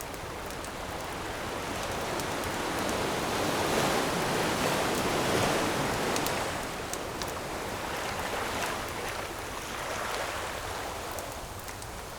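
Surf of an ocean wave rushing in, building to a peak about halfway through and then easing off, with a smaller swell after it. Campfire crackles tick sharply here and there over the wash.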